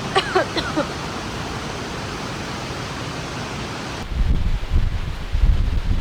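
Steady hiss of heavy rain, with a few short high chirps in the first second. About four seconds in it changes abruptly to low gusts of wind buffeting the microphone.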